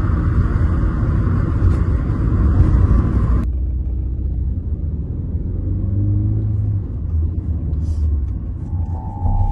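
Steady low rumble of a car's engine and road noise heard from inside the moving car's cabin. About three and a half seconds in, the higher hiss drops away abruptly and only the low rumble remains.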